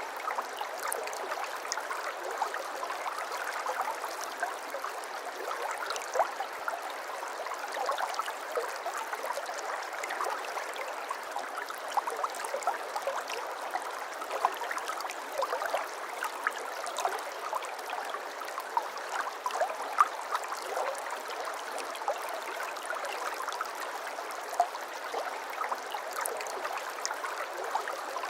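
Water flowing and trickling steadily, a continuous babble dotted with many small irregular splashes and plinks.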